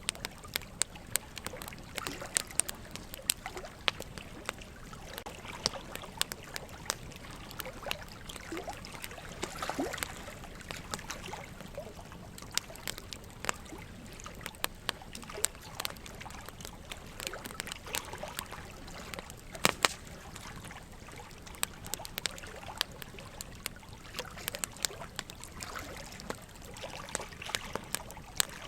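Burning wood logs crackling and popping in sharp, irregular snaps over a steady trickle of running water.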